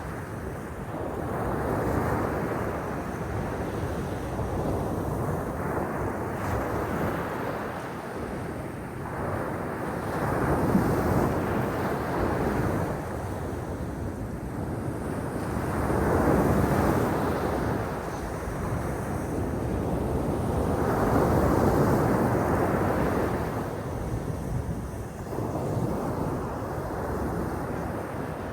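Sea waves breaking and washing on the shore, each wave swelling and fading every five to six seconds, with wind buffeting the microphone.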